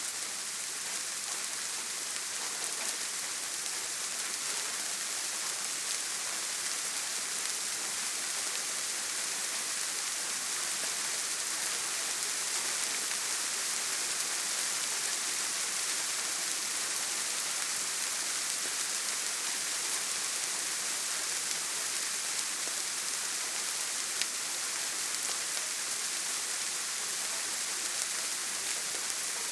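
Steady rain falling on a tin roof: an even, dense hiss with scattered faint drop ticks and one sharper tick late on.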